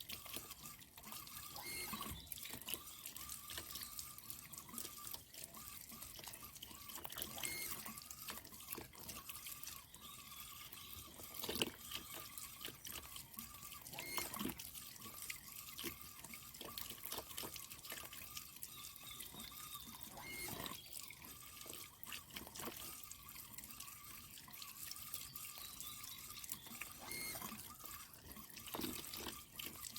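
Water dripping and trickling in many small irregular drops, with a faint steady tone underneath.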